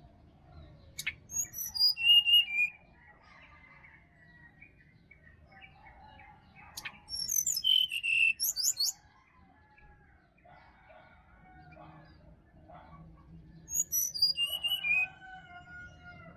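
Brown-chested jungle flycatcher singing three short phrases of quick, high notes about six seconds apart, over fainter calls of other forest birds.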